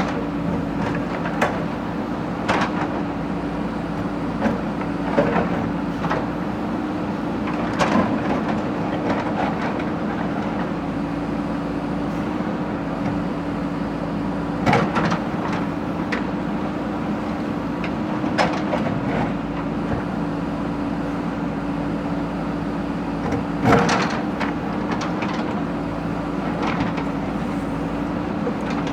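Backhoe loader's engine running steadily with a constant hum, with irregular metallic clanks and knocks from the machine working; the loudest knock comes about two-thirds of the way through.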